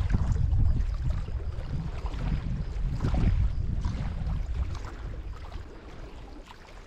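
Wind buffeting the microphone in gusts, a heavy low rumble that eases off near the end.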